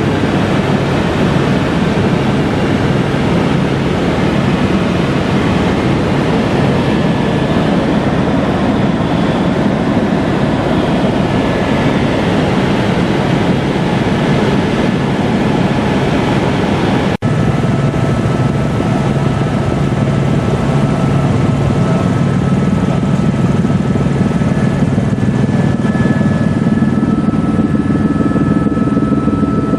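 Helicopter running with a loud, steady drone and a few held tones, with a momentary break about 17 seconds in.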